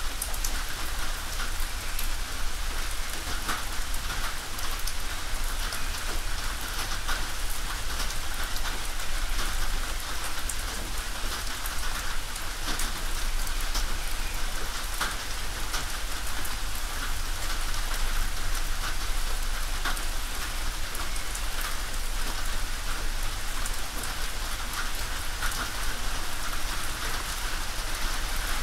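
Steady rain falling on a tin roof: a dense, even hiss of rainfall with many individual drops ticking sharply on the metal.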